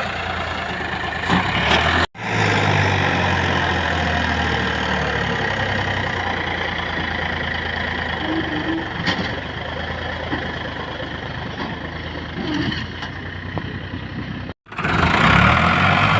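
Farmtrac 45 tractor's diesel engine running steadily, broken by two abrupt cuts where clips are joined, about two seconds in and near the end.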